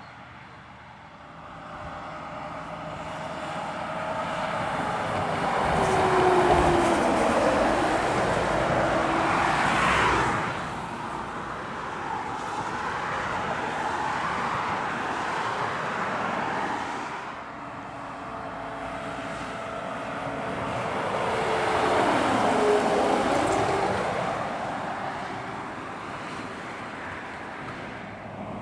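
Heavy trucks pulling hard up a long climb, two passing in turn: each grows louder as it approaches and its engine note drops as it goes by, the first about a quarter of the way in, the second near three-quarters, before fading away.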